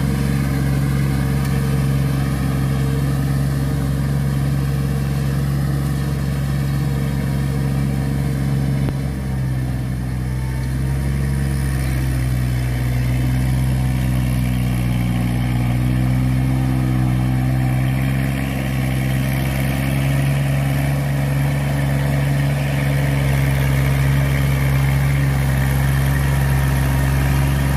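Kubota four-wheel tractor's diesel engine running steadily, with a brief dip in level and a small change in its note about nine seconds in.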